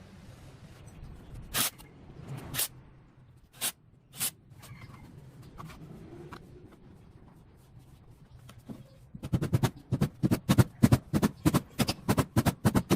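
Sharp knocks: four separate strikes in the first few seconds, then a fast, even run of loud strikes, about five a second, over the last few seconds.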